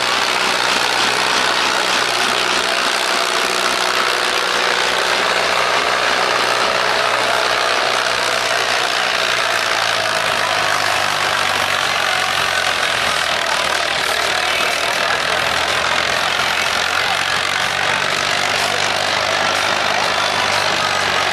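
McCormick IHC 624 tractor's diesel engine running steadily, its tone changing about ten seconds in.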